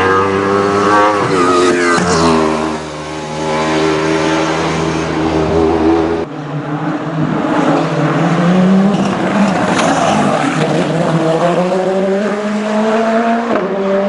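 Hill-climb racing car engines at high revs, the pitch climbing and then dropping with gear changes and lifts off the throttle. About six seconds in the sound cuts abruptly to another car accelerating up through the gears.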